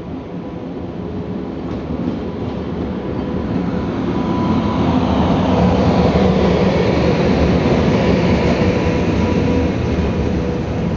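Electric locomotive hauling a passenger train along the platform, growing louder as it approaches and loudest about halfway through as the locomotive passes close by, then the coaches rolling past. A steady hum runs under the rumble.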